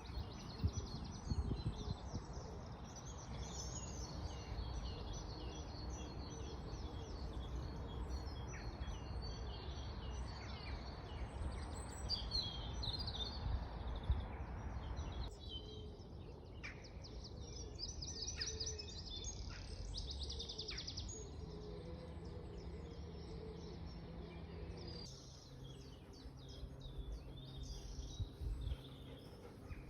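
Several songbirds singing and calling in quick phrases over a steady low background rumble. The background changes abruptly about halfway through and again near the end, as at a cut between recordings.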